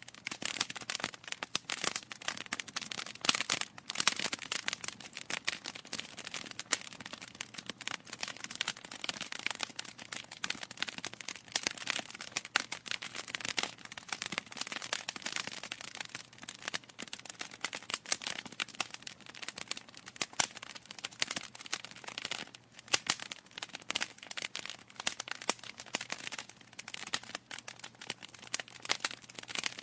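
Wood fire burning in a fireplace, crackling with dense, irregular snaps and pops from the burning logs.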